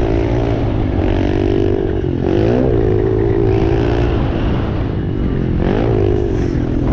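Dirt bike engine running hard under throttle. Its pitch dips and climbs back twice, about two seconds in and again near the end, as the rider rolls off and gets back on the gas.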